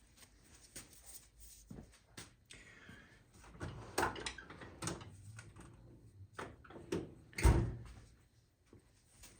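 Metal tool parts clicking and knocking as a cam bearing puller is put together, its washer and nut being fitted and run onto the shaft. The knocks are irregular, with the loudest one about three quarters of the way through.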